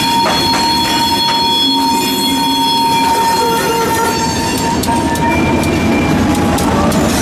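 Freight train rolling past on a curve, its steel wheels squealing against the rail in steady high-pitched tones that fade out about five seconds in, over a rumble and scattered clicks of wheels on the track. The low rumble of the diesel locomotive grows near the end as it draws level.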